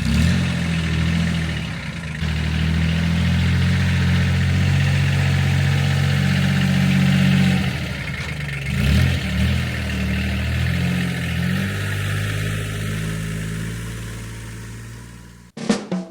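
Kubota B1502DT mini tractor's diesel engine running steadily, its pitch shifting up and down briefly about halfway through. Music with drums cuts in near the end.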